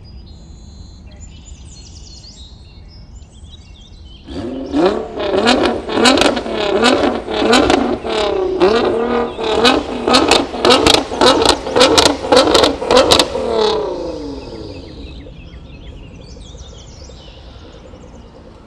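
Nissan R35 GT-R's twin-turbo V6 comes in loud about four seconds in, revving up and down repeatedly with a string of sharp cracks over the revs. It then fades away over the last few seconds.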